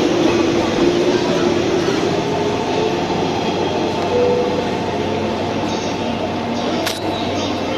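A 185 series electric train running, a steady rumble with a faint motor whine. Two sharp clicks come near the end.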